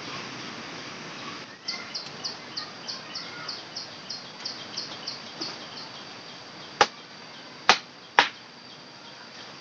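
A steady high insect drone, with a bird repeating a short, high, falling note about three times a second for a few seconds. Then, near the end, three sharp snaps in quick succession.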